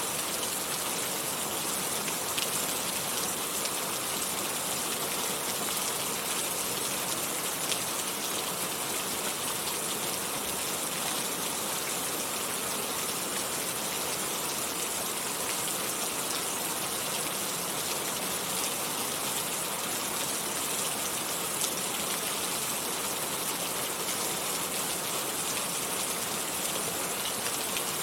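Steady rain falling, an even hiss of drops with a few faint individual taps.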